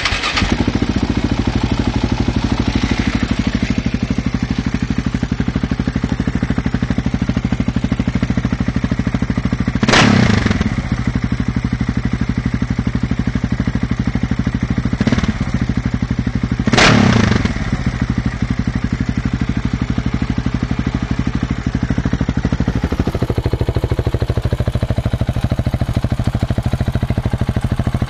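KTM 690 SMC single-cylinder motorcycle engine idling with a fast, even exhaust pulse, blipped briefly twice with a smaller blip between.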